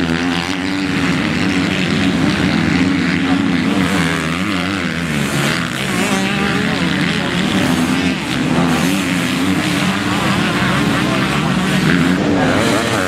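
Several motocross motorcycles racing together, their engines revving up and down with throttle and gear changes, overlapping throughout.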